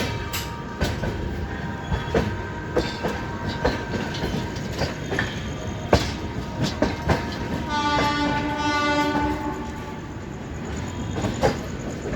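Moving passenger train running, wheels clicking irregularly over the rail joints over a steady rumble. About eight seconds in, a train horn sounds for about a second and a half.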